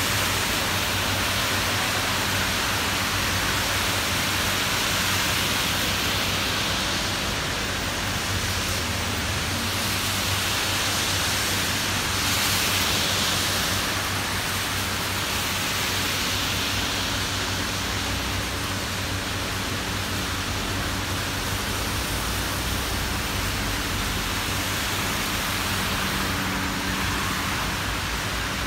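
Steady rain falling on a city street, mixed with the hiss of car tyres on the wet road and a low hum of traffic. The hiss swells briefly about halfway through.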